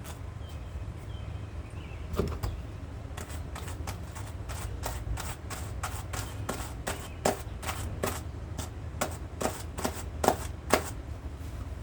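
Wire-pinned hand carders being drawn across each other to card soft dog undercoat: a run of short brushing strokes, a couple to three a second, starting about two seconds in, over a low steady hum.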